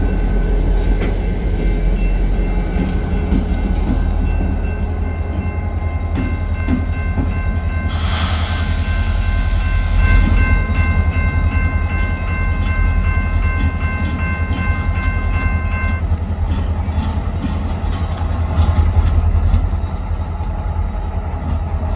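Train passing close by: a steady heavy rumble with wheels clicking over rail joints, a burst of hiss about eight seconds in, and faint steady high tones for several seconds in the middle.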